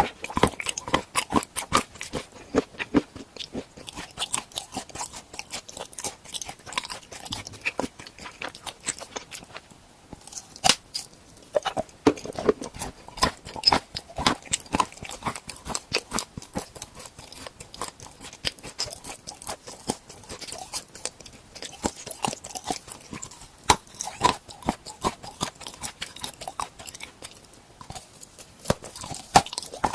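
Close-miked crunching and chewing of edible tool-shaped treats, with many sharp, rapid crunches as the pieces are bitten and chewed.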